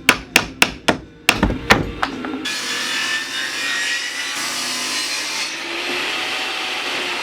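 Woodworking on a 2x4: about eight sharp knocks on wood, about three a second, in the first two and a half seconds, then steady rough scraping of a tool cutting or shaping the wood.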